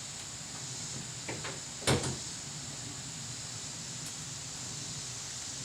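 A few short knocks over a steady hiss, the loudest about two seconds in, like parts or tools being handled.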